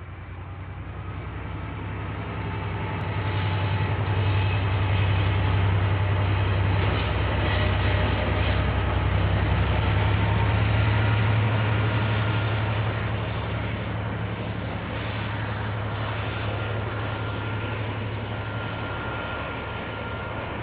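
KiwiRail diesel-hauled train passing, heard through a security camera's microphone. A deep engine hum and the rumble of the train build over the first few seconds, stay loud through the middle, then ease off. Faint high wheel squeals run through the rumble.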